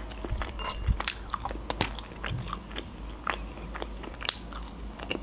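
Close-up chewing of French fries dipped in sauce: irregular soft smacks and clicks of a mouth eating.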